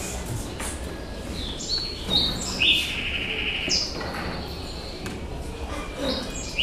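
Birds chirping: a series of short, clear whistled notes at several different pitches, the longest about halfway through and a few more near the end.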